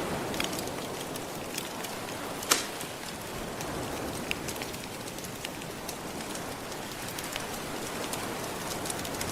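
Fireplace crackling with scattered sharp pops over a steady wash of gentle ocean waves. One pop about two and a half seconds in is much louder than the rest.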